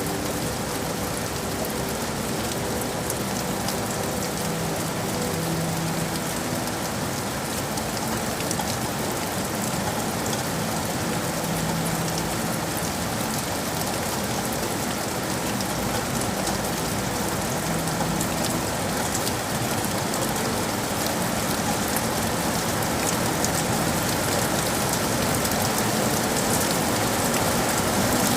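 Steady rain falling on city surfaces, with fine ticks of individual drops. A faint low hum sits under the rain for the first two-thirds.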